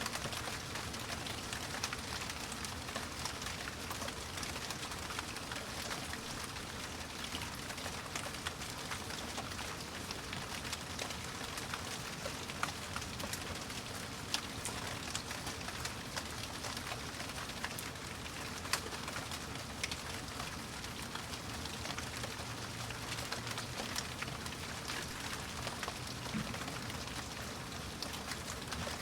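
Steady rain falling, an even hiss with many single drops ticking sharply on a surface throughout.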